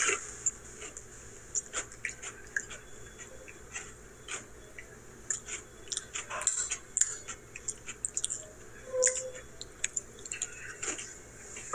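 A person chewing and biting mint chip cream Oreo cookies: scattered short crunches and mouth clicks at an uneven pace.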